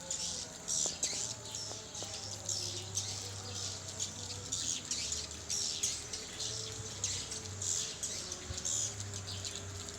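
Swiftlets calling: a dense, continuous stream of short high chirps and twitters with no pause, over a faint low steady hum.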